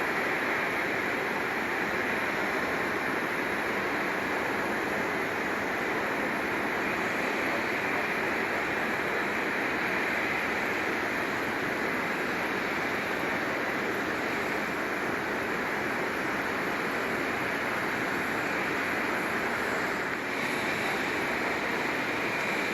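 Jet engines of a Boeing 767-300 freighter running at taxi power: a steady, even rush with no change in pitch, broken by a brief dip about twenty seconds in.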